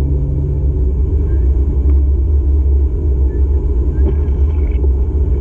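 Low, steady road and engine rumble heard inside a moving car's cabin. An engine hum fades out about a second in, leaving the road rumble.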